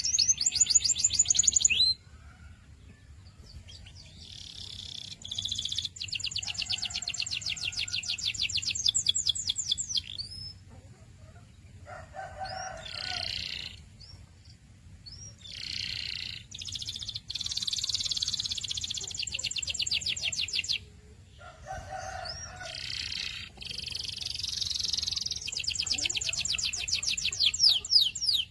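Domestic canary singing: phrases of rapid, high trills lasting from about one to five seconds, separated by short pauses.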